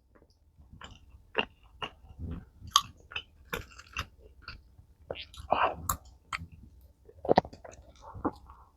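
Close-miked eating sounds: chewing and biting, heard as an irregular string of short wet smacks and clicks, a few of them louder.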